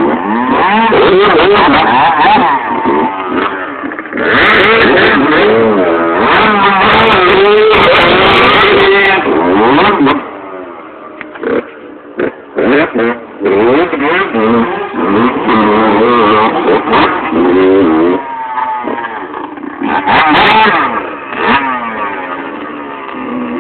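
Dirt bike engines revving hard, their pitch rising and falling again and again as the bikes ride the dirt ramps, loud and close. The engines drop back quieter for a few seconds about ten seconds in, then rev up again.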